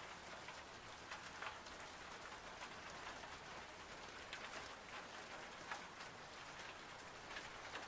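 Faint, steady rain with scattered individual drops.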